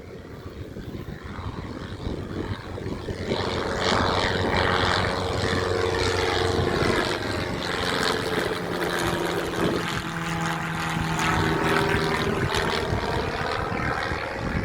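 Propeller airplane taking off and passing: its engine and propeller drone builds over the first few seconds, holds, then drops in pitch as it goes by.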